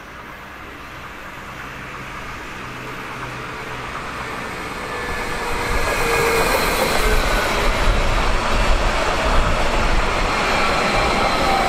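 Electric train approaching along the track and running past close by, growing steadily louder over the first five seconds into a heavy rail rumble. High whining tones sound over it and drop in pitch as it goes by.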